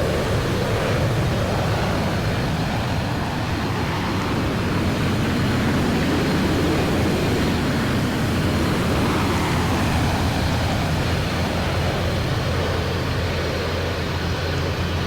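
Aircraft engines running, a steady rushing noise with a deep low end that holds at one level.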